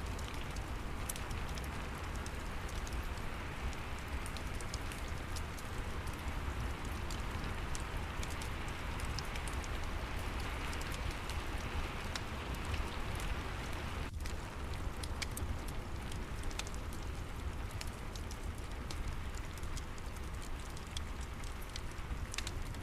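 Steady rain with a crackling fireplace: a continuous hiss of rain over scattered sharp crackles and ticks, with a low rumble underneath.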